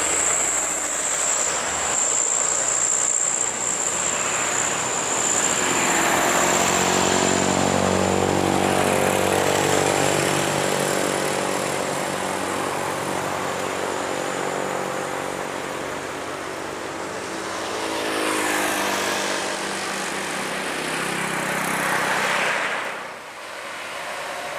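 Heavy trucks' diesel engines passing on an uphill highway, one after another: one swells and goes by in the first half, a second near the end, each with a low droning engine note over tyre noise.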